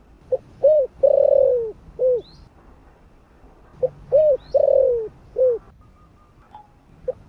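Spotted dove cooing: two four-note phrases, each a short note, an arched note, a long falling note and a short final note, about three and a half seconds apart, with a third starting near the end. Faint high chirps from a small bird come between the notes.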